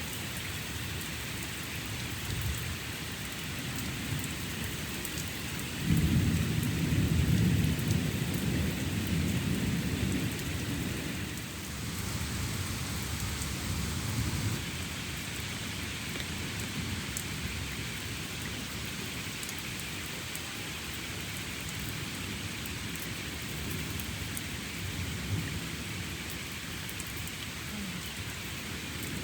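Steady rain falling in a thunderstorm, with a rumble of thunder that starts suddenly about six seconds in and dies away over the next several seconds.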